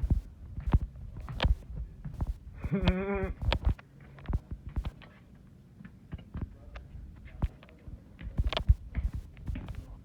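Footsteps and small knocks from someone walking through a vintage railway passenger car, with one short, wavering hum-like tone about three seconds in.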